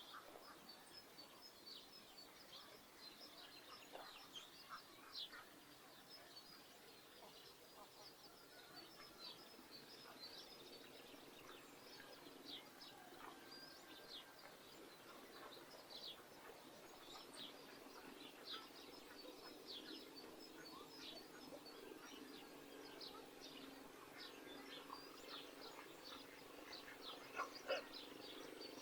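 Faint village-morning birdsong: many small birds chirping in short, high calls throughout, over a low steady drone that grows a little in the second half.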